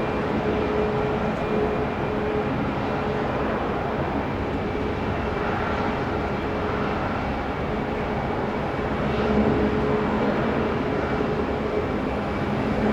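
Jet engines of an Airbus A380 on approach: a steady roar with faint steady whining tones over it.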